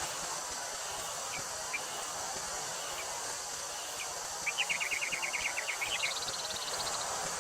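Wind blowing through a wheat field, a steady hiss, with a few single chirps and then, about halfway through, a rapid run of chirps of about ten a second that turns into a higher, faster trill near the end.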